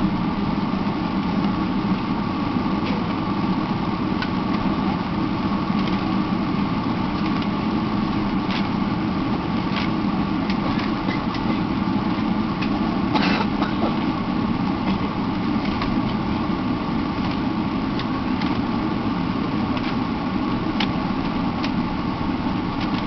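Steady airliner cabin noise inside a Boeing 777-300, a hum from the engines and air conditioning, with scattered light clicks and a brief louder rattle about 13 seconds in.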